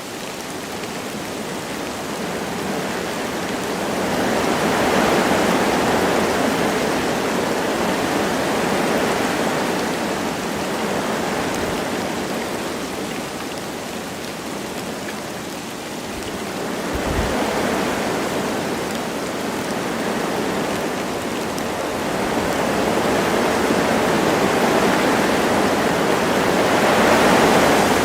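Wind gusting through forest trees with light rain falling, a steady rushing that swells and eases in slow waves every several seconds. A brief low thump comes just past the middle.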